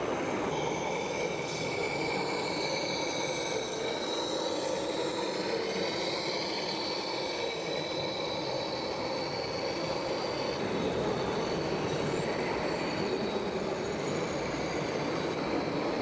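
Small electric motors and plastic gearing of a remote-control toy tractor running steadily, a continuous grinding whir with high whining tones that waver slightly.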